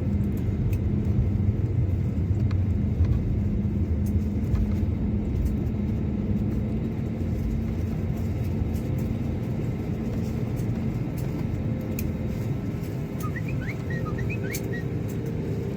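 Airliner cabin noise on the landing rollout: a steady low rumble of the jet engines and wheels on the runway, easing slowly as the aircraft slows.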